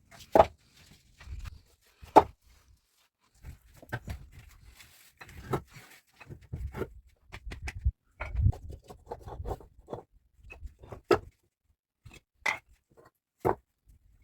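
Irregular knocks and taps with soft low thuds between them. The sharpest, loudest knocks come about half a second in and about two seconds in.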